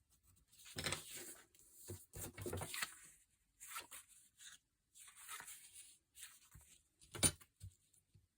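Paper being torn by hand in several short rips, with a single sharp tap, the loudest sound, about seven seconds in.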